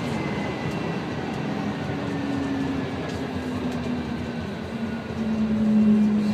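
Tvärbanan light-rail tram running, heard from inside the car: steady rolling noise with a high electric whine slowly falling in pitch as it slows, and a low hum that swells near the end.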